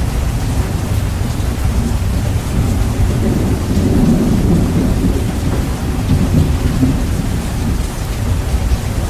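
Heavy rain, bass-boosted and distorted, with a low thunder rumble that swells for a few seconds in the middle.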